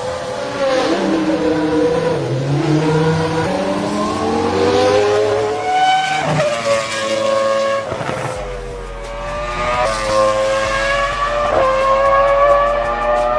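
Toro Rosso STR1 Formula 1 car's V10 engine at high revs, its pitch climbing through several quick upshifts, with a short dip at each gear change.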